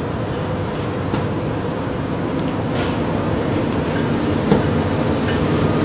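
Steady rumble of a train at a rail siding, slowly growing louder, with a few short clicks.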